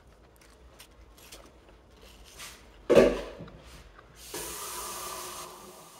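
Soft crackling of an apple being chewed with the mouth closed, a series of short crunches. A sudden loud sound comes about three seconds in, and about a second of hiss follows near the end.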